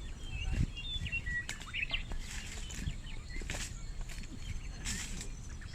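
Small birds chirping in short, quick calls over a low rumble of background noise, with a few sharp clicks.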